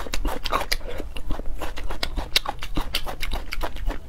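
A person chewing a mouthful of spicy braised beef skin and cartilage: a quick, irregular run of crunches and clicks.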